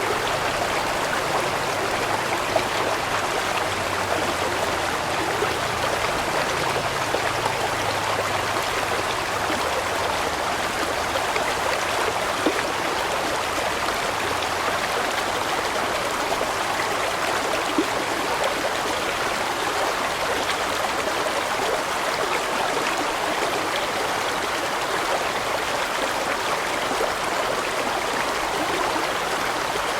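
Water of a large stream flowing and splashing steadily over rocks.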